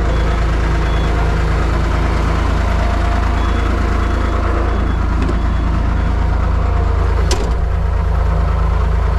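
Truck engine running steadily with a low, even drone, and a single sharp click about seven seconds in.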